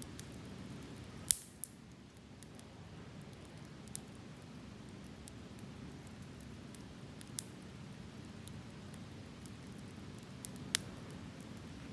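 Wood campfire burning with a low steady rush, broken by scattered sharp crackles and pops, the loudest about a second in and another near the end.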